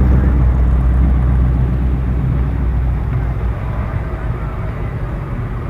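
A car's engine passing by with a deep, steady low note that fades away as the car drives off, dying out about three and a half seconds in.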